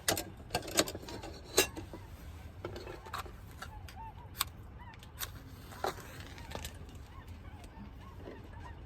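Scattered light clicks and knocks of handling utensils or gear, about ten in all, the loudest near the start. Faint, distant honking bird calls sound behind them.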